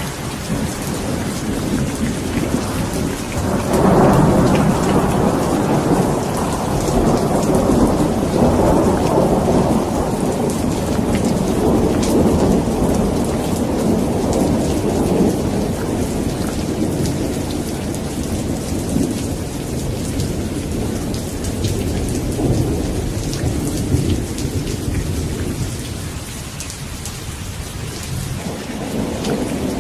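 Steady rain falling, with thunder rumbling in: a long roll swells about four seconds in and slowly fades towards the end.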